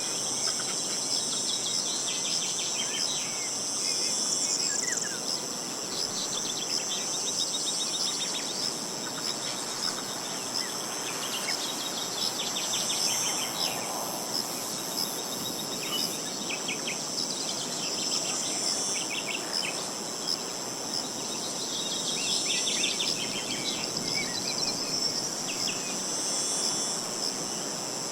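Insects trilling steadily in a high, continuous chorus, with birds chirping on and off throughout, over a soft background hiss.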